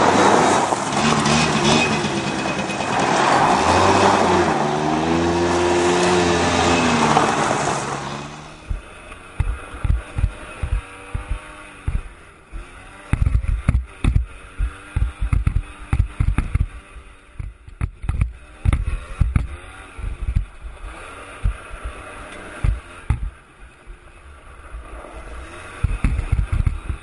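Suzuki LT80 ATV's small two-stroke engine running loudly and revving up and down for about eight seconds. It then drops much quieter, with a faint engine tone and many irregular low thumps to the end.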